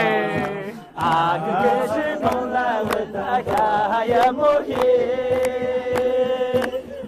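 A voice singing a folk-style melody with wavering ornaments over music with a beat, holding one long note from about four seconds in until near the end.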